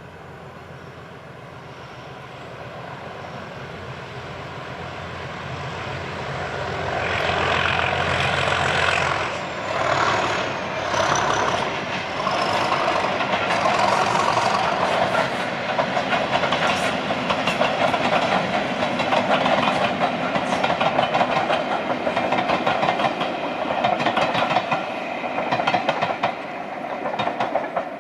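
English Electric Class 37 diesel locomotive with its 12CSVT engine, growing louder as it approaches, then passing about a third of the way in with a high whistle that falls in pitch. After that comes a steady rhythmic clatter of the train's wheels over the rail joints as the coaches roll past.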